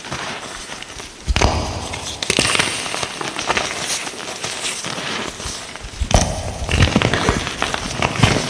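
Light green gym chalk being crushed, crisp crunching and crackling, with sharp loud crunches about a second and a half in and again about six seconds in.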